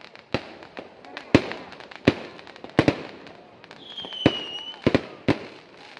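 Fireworks going off: about seven sharp bangs at uneven intervals, with crackling between them. A high whistle, falling slightly in pitch, sounds a little after the middle.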